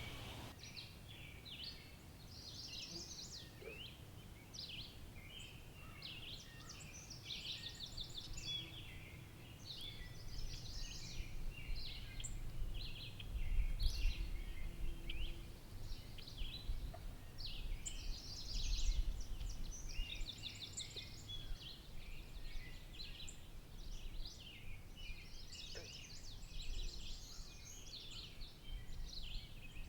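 Several small songbirds singing and calling, a steady run of quick chirps and short high trilled phrases, with a low rumble that swells a little before the middle and again a few seconds later.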